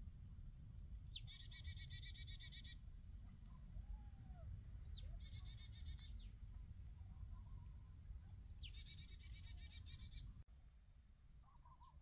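A small songbird singing three short phrases a few seconds apart, each a high note sliding down into a fast trill, with a few faint single high notes between, over a low steady rumble.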